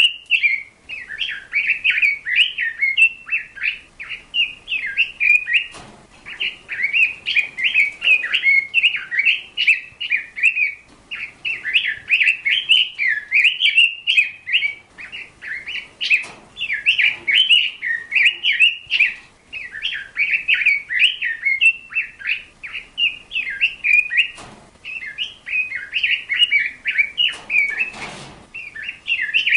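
A bird singing close by: fast chirps and twitters in long phrases broken by short pauses, with a few faint clicks.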